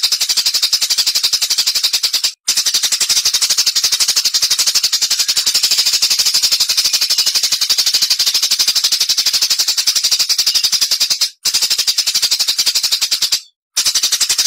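Recorded songbird giving a rapid, rattling machine-gun trill of sharp high notes. It runs in long bursts, about two seconds, then nine, then two, broken by brief pauses.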